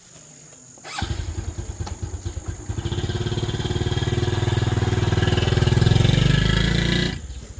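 Small motorcycle engine starting about a second in and running with a steady pulsing beat that grows louder, then cutting off sharply shortly before the end.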